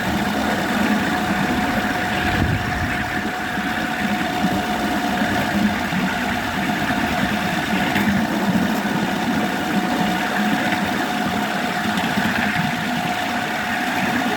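Miniature electric locomotive running, a steady motor hum with a constant whine over it.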